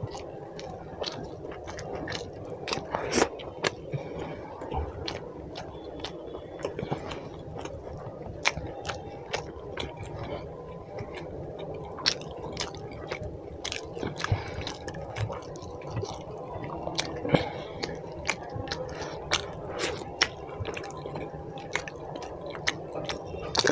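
Close-miked chewing of chicken curry and roti, wet and open-mouthed, with many short sharp smacks of the lips.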